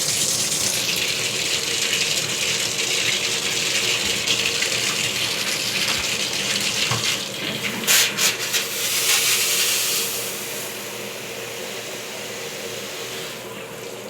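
Water running from a newly fitted shower head in a steady hiss. There are a couple of sharp knocks about eight seconds in, and the flow turns quieter at about ten seconds.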